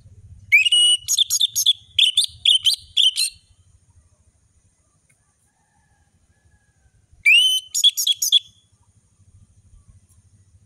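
Orange-headed thrush singing: a fast run of loud, varied whistled notes starting about half a second in and lasting some three seconds, then, after a quiet pause, a shorter burst about seven seconds in.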